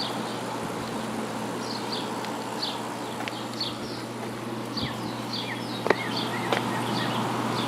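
1994 White Westinghouse 5200 BTU window air conditioner running on high cool: a steady low hum from its Goldstar compressor under the even rush of air from the A.O. Smith fan, nice and quiet. Short high chirps repeat over it, and there is a single click about six seconds in.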